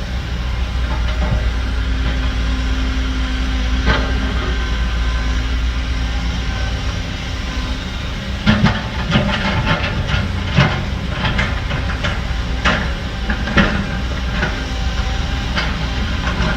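Diesel engine of heavy earthmoving machinery running with a steady low rumble. From about halfway through, a series of metallic clanks and knocks joins in.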